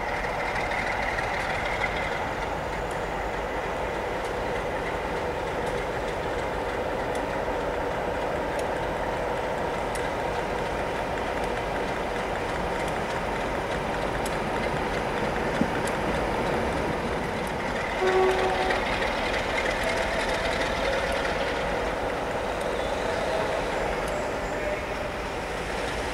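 Steady train noise: a constant rumble with a steady hum, without a clear start or stop.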